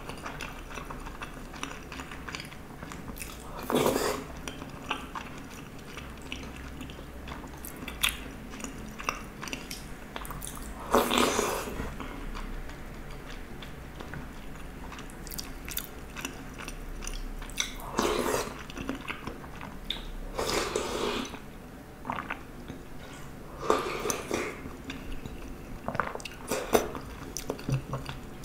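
Close-miked chewing of rice soaked in spicy sauce: wet mouth sounds with scattered small clicks, and about half a dozen louder brief bursts a few seconds apart.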